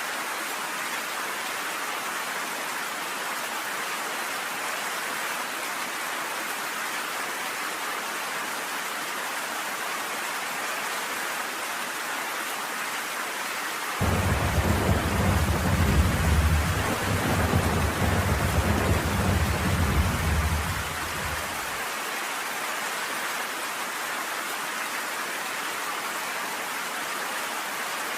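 Steady rain falling, with a low rumble of thunder that starts suddenly about halfway through and dies away some eight seconds later.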